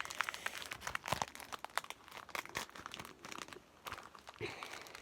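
Foil booster pack of Pokémon cards being torn open and crinkled by hand, with irregular crackling and rustling of the wrapper.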